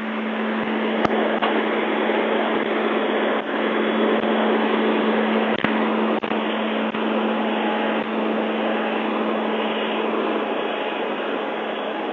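Steady mechanical drone with a constant low hum under a wide rushing noise, and a few faint clicks.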